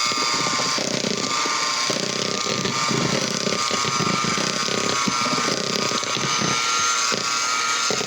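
Electric hand mixer running steadily with a high motor whine, its beaters clattering irregularly in the bowl as they beat chocolate pudding mix into milk.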